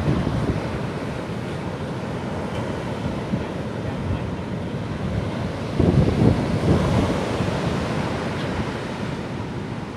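Ocean surf washing onto a beach, with a louder wave breaking about six seconds in. Wind rumbles on the microphone throughout.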